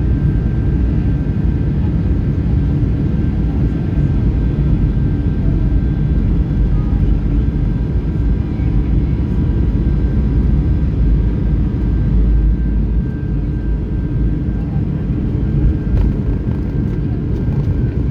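Rolls-Royce RB211 jet engines of a Boeing 757-300 running loud and steady during the takeoff, a deep rumble with faint steady whines above it.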